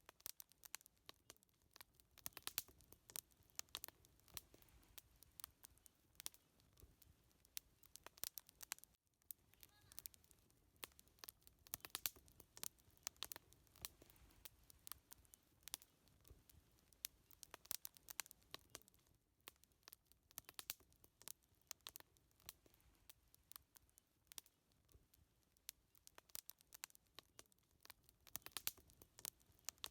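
Wood fire crackling: many small sharp pops and snaps at irregular times over a faint low rumble of the flames.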